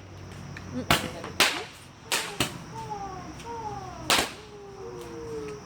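Fireworks going off in about five sharp cracks, irregularly spaced. Falling whistle-like tones run between them.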